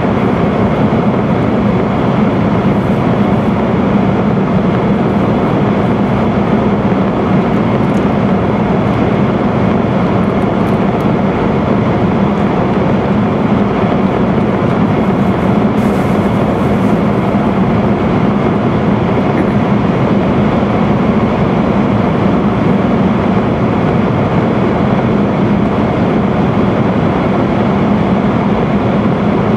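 Steady running noise of an E5 series Shinkansen at speed through a tunnel, heard inside the passenger car: a loud, even rumble with a low hum.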